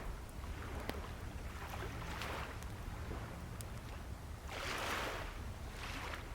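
Waves washing in on a shore in hissing swells, the biggest about halfway through, over a low steady rumble of surf, with a few sharp pops from a crackling wood campfire.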